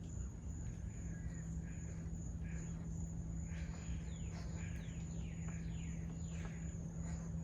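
Several birds chirping with quick falling calls, busiest in the second half, over a steady high insect drone and a steady low hum.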